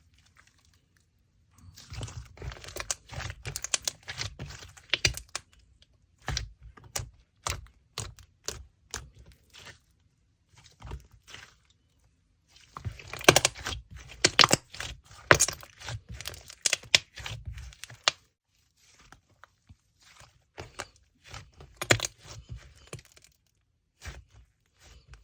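Slime being worked by hand, giving bursts of crackling clicks and pops with short pauses between.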